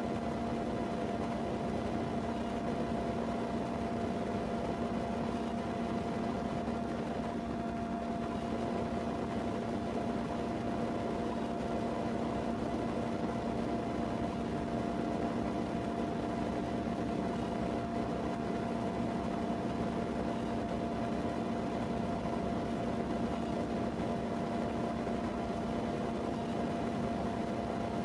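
Steady mechanical hum with a faint whine over an even hiss, unchanging throughout.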